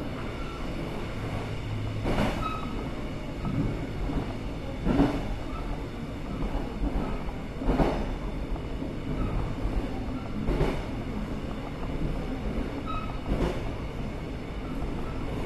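Passenger train running, heard from inside the carriage: a steady low rumble with a wheel clack over a rail joint about every three seconds.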